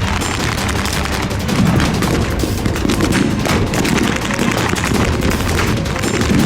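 Dense, continuous gunfire from blank-firing rifles and machine guns, many shots overlapping in quick succession.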